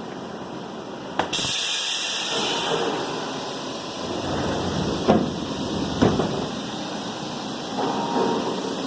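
CNC lathe running while turning a nut, a steady machine noise. A click about a second in is followed by a strong hiss, and there are two sharp knocks a little past the middle.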